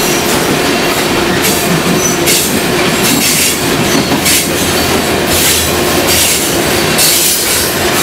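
Freight train's tank cars rolling past: steady wheel-on-rail noise with repeated clacks as the wheels cross rail joints.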